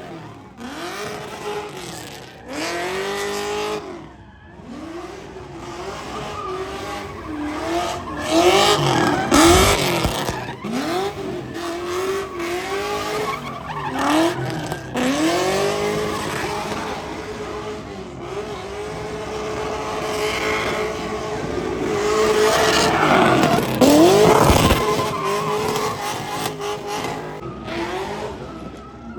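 Car doing a burnout: the engine revs up and falls back over and over, holding a steady high pitch in places, while the tyres squeal and smoke against the pavement.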